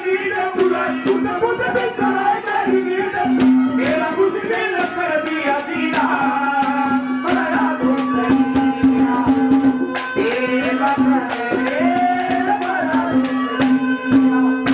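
Haryanvi folk music: a held drone note under a wavering melody, with regular hand-drum strokes and rattling percussion.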